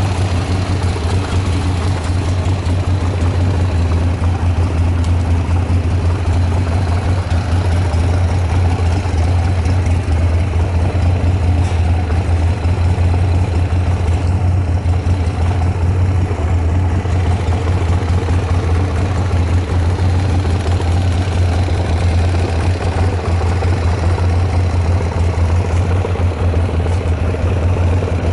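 Buell X1 Lightning's air-cooled 1203 cc V-twin engine idling steadily with no revving, sounding healthy with no abnormal noises.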